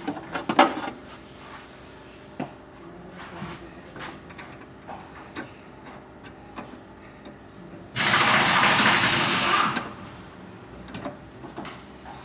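Scattered light metal clicks and knocks of hand tools at work on an engine, with one loud steady hiss lasting under two seconds about eight seconds in.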